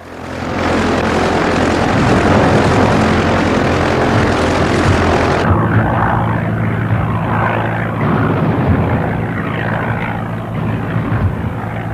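Propeller aircraft engine running steadily at full power, with a loud rushing noise over it. About five seconds in the sound turns abruptly duller as the hiss drops away, while the engine carries on.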